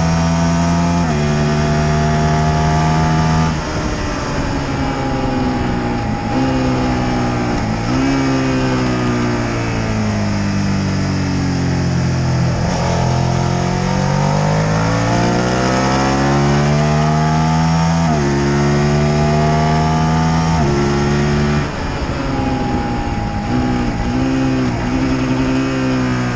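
Motorcycle engine heard onboard at speed, with wind rush on the microphone. The engine note steps down at each gear change. It sinks as the bike slows for a corner, then climbs hard under acceleration out of it. Near the end comes a quick run of downshifts.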